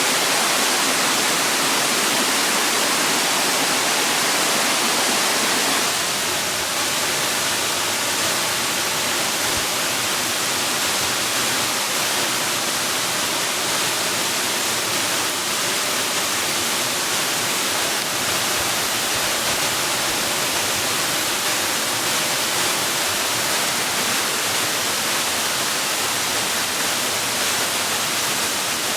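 Steady rush of flowing water, like a waterfall, with an even hiss across all pitches. It becomes slightly quieter about six seconds in.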